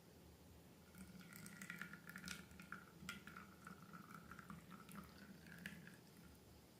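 Faint sticky clicks and soft squelches of slime being handled, heard mostly from about a second in until near the end, over a low steady hum.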